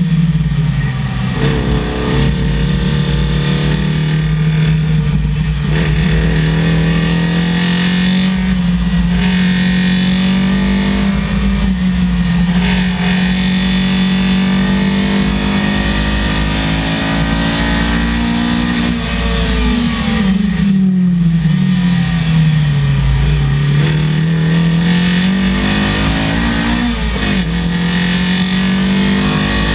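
Datsun 1200 rally car's SR20VE four-cylinder engine, heard onboard, pulling steadily at about 5,000–5,500 rpm in third gear. About 19 seconds in the revs fall away over a few seconds and climb back, with another short dip and recovery near the end.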